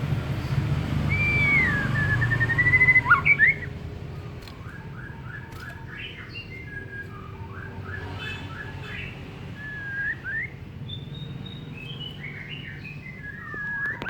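White-rumped shama (murai batu) singing: slurred whistled glides, then runs of short, quickly repeated notes and more whistles. A low hum sits under the first few seconds.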